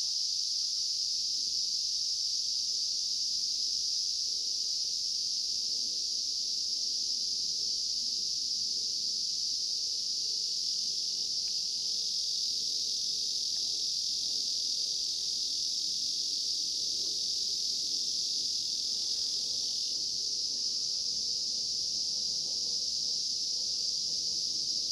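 Steady, unbroken high-pitched chorus of insects shrilling.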